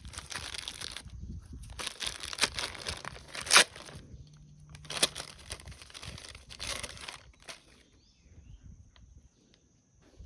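Crinkling and tearing of packaging, dense for about four seconds with one sharp crack partway through, then thinning to scattered rustles that die away after about seven and a half seconds.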